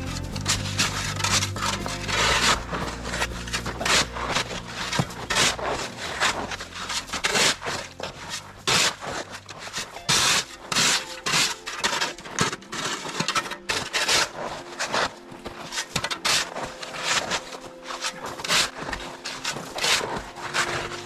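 Rough scraping strokes, repeated irregularly about once or twice a second. Background music fades out under the first few seconds.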